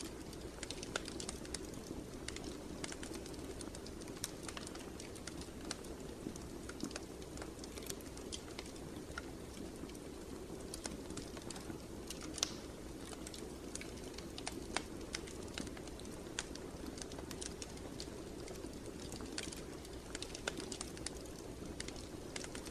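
Wood fire crackling in a fireplace: irregular sharp snaps and pops over a steady low rush of the flames.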